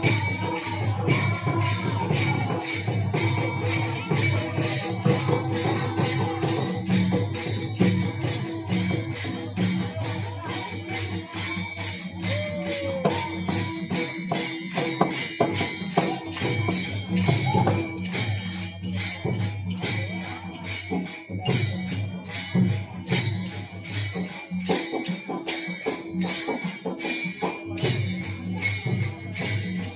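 Devotional bhajan accompaniment with no singing: small metal hand cymbals (tal) clash in a fast, even rhythm of about three to four strikes a second. A drum and a steady held tone sound beneath them.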